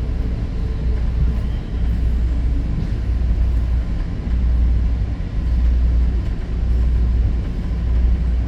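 Commuter train running on the rails, heard from inside the passenger coach: a steady low rumble with no sudden events.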